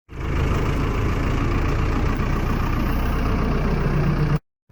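A vehicle engine idling steadily with an even low rumble.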